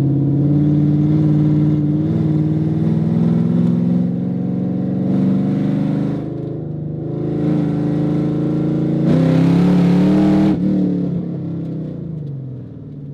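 Supercharged V8 of a third-generation Cadillac CTS-V, heard from inside the cabin, pulling hard under wide-open throttle. The revs climb, ease off briefly mid-way, then surge to the loudest part before falling steadily about ten and a half seconds in as the throttle closes. On this pull the car is still misfiring on cylinder six.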